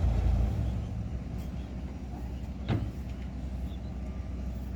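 Heavy diesel engine running steadily, louder for about the first half second and then settling lower, with one sharp clank a little past the middle.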